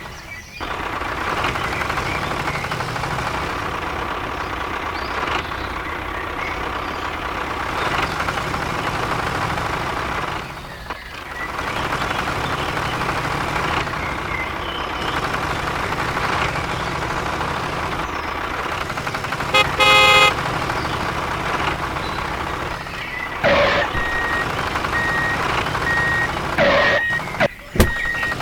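A vehicle engine running steadily, with brief breaks about a second in and about eleven seconds in. A short tonal blast like a horn comes about two-thirds of the way through, and a steady repeating beep like a reversing alarm sounds near the end.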